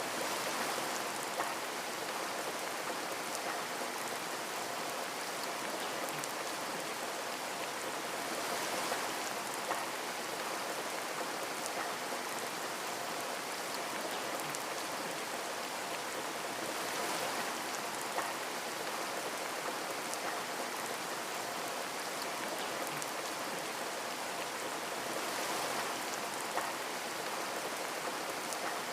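Steady rain falling on a window, with a dense patter of drops and now and then a slightly louder drop tapping the glass. The rain swells gently every eight seconds or so.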